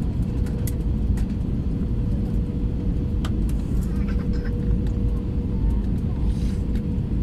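Steady low rumble of a passenger airliner's engines and airflow heard from inside the cabin during the landing, with a faint steady hum and a few light clicks.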